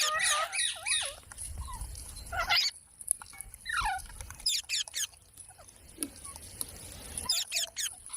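Pet parrot giving short, sharp chirps and squawks with brief pauses between them; several notes sweep steeply up and down in pitch.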